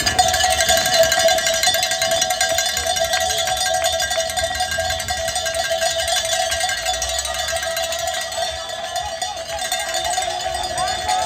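Cowbells shaken continuously by roadside spectators, a steady metallic clanging ringing without a break.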